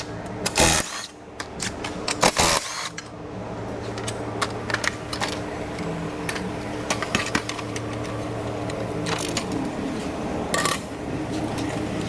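Clicks, rattles and short scrapes of plastic bumper parts and wiring-harness connectors being handled and pulled apart, with a few louder noisy bursts, over a steady low hum.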